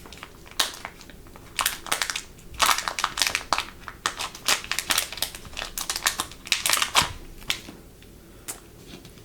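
Plastic packaging being crinkled and handled in irregular bursts of crackling.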